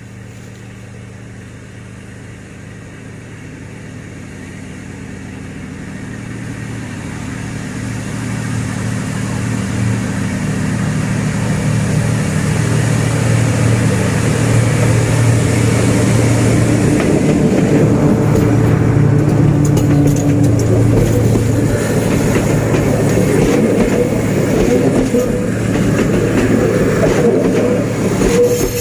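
D19E diesel-electric locomotive hauling a passenger train as it approaches: the low, steady engine drone grows louder over about twelve seconds and then stays loud, with wheel-on-rail noise rising over it later on.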